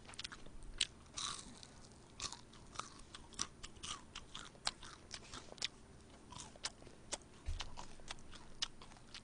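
A person chewing soy sauce fried chicken close to the microphone: quiet, irregular bites and small crunches with mouth clicks.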